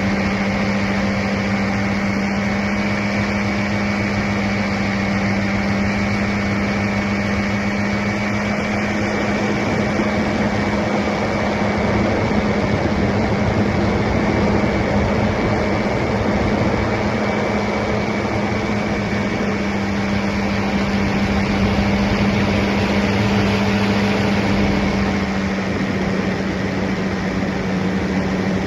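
Paramotor engine and propeller running at a steady throttle: a constant, even drone.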